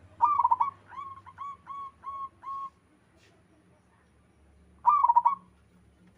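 Zebra dove cooing: a quick burst of rolled notes followed by five short, evenly spaced coos, then after a pause another quick burst of rolled notes about five seconds in.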